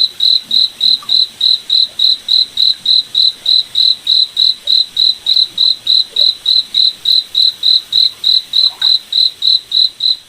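A cricket chirping in a steady, even rhythm, about three high chirps a second.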